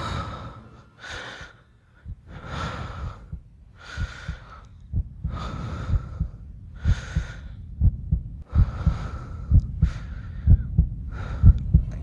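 Heavy, strained breathing, about one breath a second, over short low thumps that get louder and come faster in the second half.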